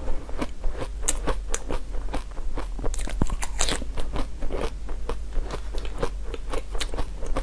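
Close-miked chewing of a frozen jelly treat: a quick, irregular run of small crisp crunches as the icy jelly is bitten and chewed.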